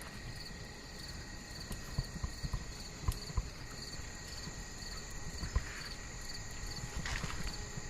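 Rainforest insect chorus: several steady, high-pitched trills running together, one of them pulsing, with scattered soft thuds of footsteps on the trail.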